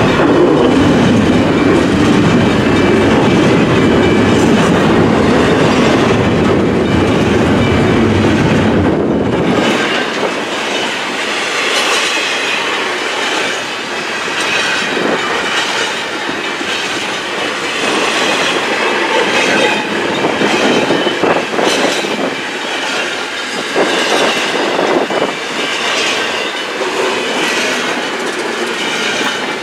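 Double-stack intermodal container well cars rolling past at speed, the wheels clicking rhythmically over rail joints with some wheel squeal. A heavy low rumble in the first third cuts off abruptly about ten seconds in, leaving a lighter rush of wheels and clicks.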